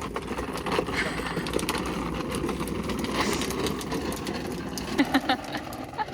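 Small toy motor running steadily with a gritty, rattling whir of little gears.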